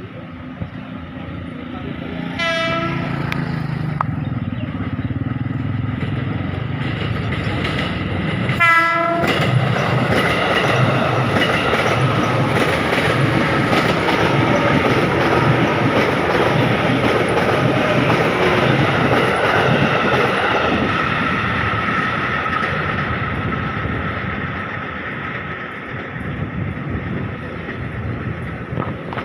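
A train passing close by, sounding its horn in two short blasts, about 2.5 and 9 seconds in. Then a loud rumble of wheels on the rails with some clickety-clack builds and fades toward the end.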